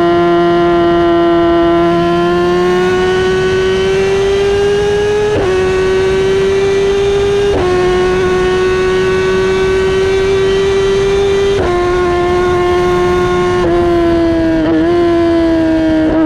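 Kawasaki ZX-10R inline-four sportbike engine and exhaust pulling at high revs. The pitch climbs slowly, then drops sharply about four times as it shifts up through the gears.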